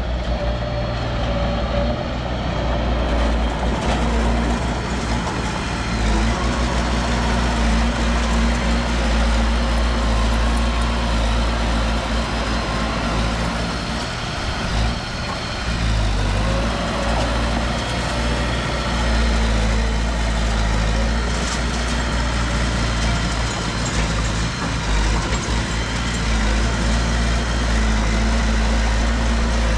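Heavy earthmoving machinery's diesel engine running steadily with a deep, continuous hum, dipping briefly in loudness about halfway through.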